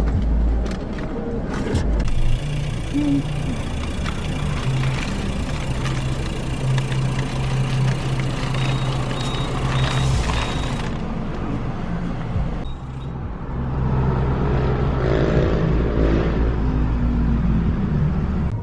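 Motor vehicle running, with steady engine and road noise that changes abruptly a few times.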